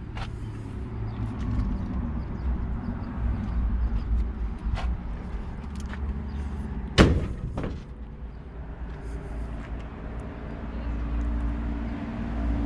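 A car being shut with a single loud slam about seven seconds in, followed by a lighter knock, over a low steady rumble and a few small clicks.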